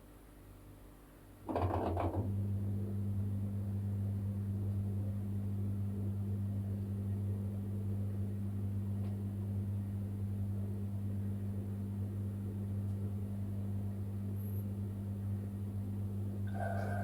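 Washing machine starting up with a brief clatter about a second and a half in, then running with a steady low hum. Near the end a higher whirring, sloshing sound joins in.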